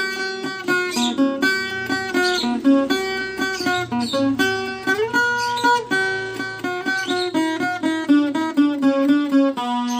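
Viola caipira, the Brazilian ten-string folk guitar, playing an instrumental melody of quick plucked notes over a repeating low figure, with one note slid upward about halfway through.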